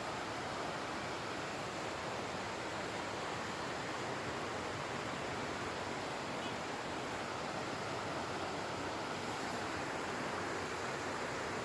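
Steady, even rushing noise outdoors, with no pauses or distinct events.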